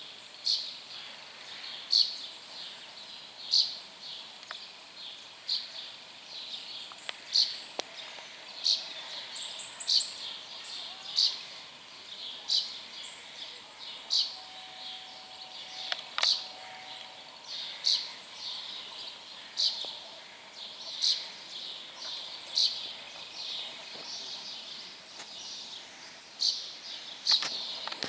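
A bird calling over and over, a short high chirp repeated about every second or so.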